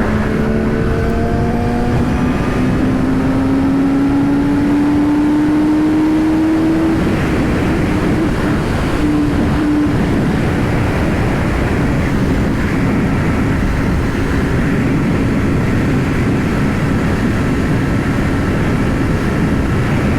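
Yamaha R6 inline-four sport bike engine running under way, its note climbing slowly for the first several seconds and then holding steady at cruise, under a constant rush of wind noise.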